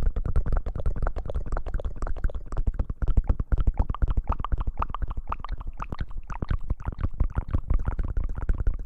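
ASMR hair-washing sounds: rapid rubbing and scratching right at the microphone, many crackling strokes a second over a heavy low rumble.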